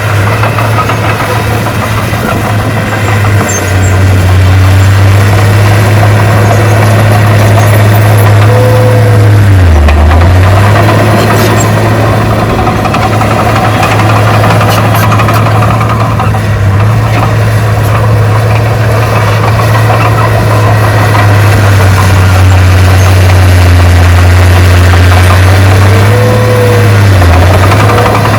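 Heavy diesel engine of earthmoving equipment running hard and steadily. Its low note dips briefly and recovers twice, about ten seconds in and again near the end.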